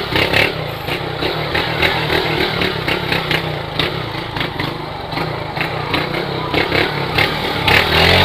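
Motorcycle engine running at a steady pitch while riding, under a constant rush of noise.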